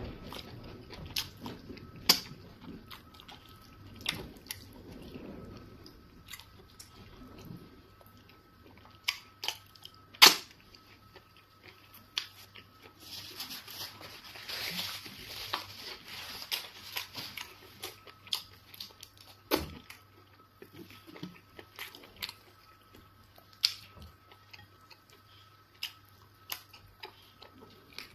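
Close-up eating sounds of someone chewing swallows of eba and fufu with egusi soup: wet mouth smacks and sharp clicks at irregular intervals, the loudest about ten seconds in. A longer noisy stretch comes about halfway through. A faint steady hum runs underneath.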